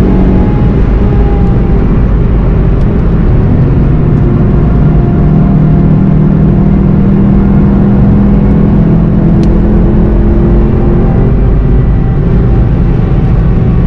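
VW Golf 7 GTI TCR's turbocharged 2.0-litre four-cylinder heard from inside the cabin at speed. The engine note sags as the car slows from about 190 to 130 km/h in the first few seconds, then rises again as it accelerates back up past 170 km/h.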